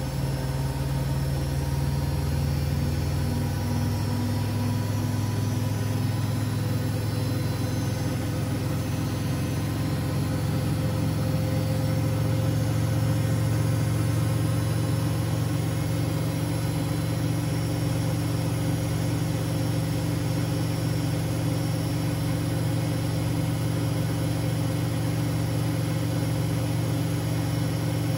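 Siemens Siwamat 6143 washing machine running with a steady motor hum. The pitch of the hum shifts about three seconds in, then holds steady.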